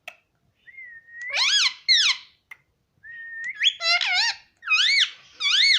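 Indian ringneck parrot whistling: twice a held high note slides into a run of rising-and-falling warbling whistles, the second run longer.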